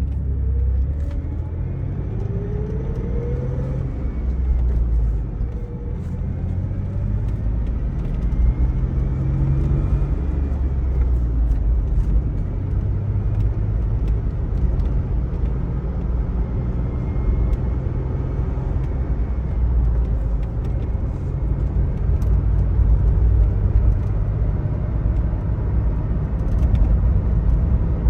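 1999 Chevrolet Blazer's 4.3-litre V6 engine pulling the truck along: its pitch climbs as it accelerates, falls back about four seconds in as it shifts gear, and climbs again, over a steady low rumble.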